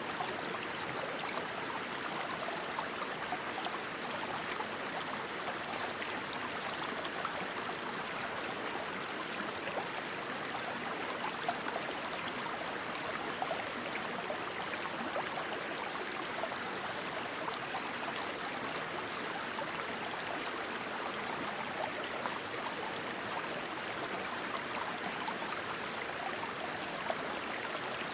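Rushing stream water running steadily, with short high-pitched chirps repeating about once or twice a second and two brief trills.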